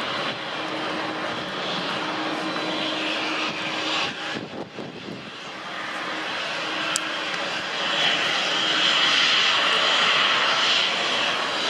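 Jet engines of a Boeing 767-300ER freighter running, a steady rushing noise that dips briefly near the middle, then grows louder and stays loud over the last few seconds.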